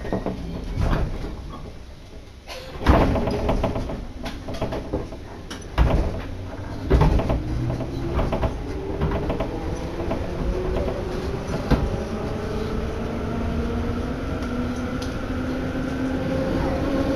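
Electric passenger train heard from inside the car as it pulls out of a station: a few loud knocks and thumps in the first seven seconds, then the traction motors whine, rising slowly and steadily in pitch as the train accelerates, over a steady running rumble.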